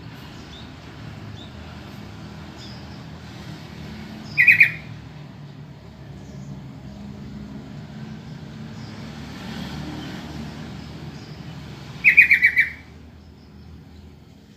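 Yellow-vented bulbul calling: two short bursts of quickly repeated notes, about eight seconds apart, over a steady low background rumble.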